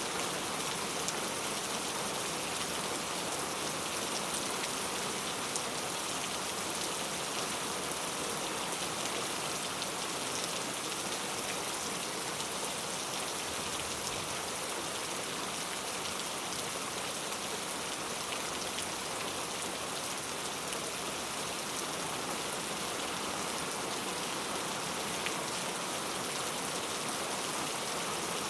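Heavy rain falling steadily, a dense even hiss of drops hitting hard surfaces with occasional sharper drop ticks.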